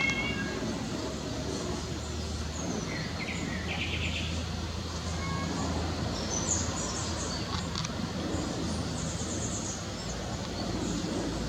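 Small birds chirping and twittering in short calls and trills, over a steady low rumble.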